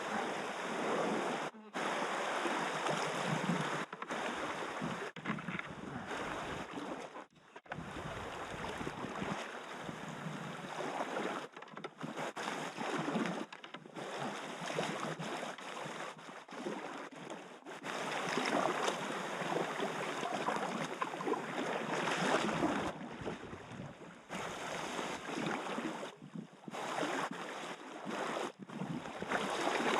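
Fast river water rushing and splashing, with uneven surges and several brief dropouts.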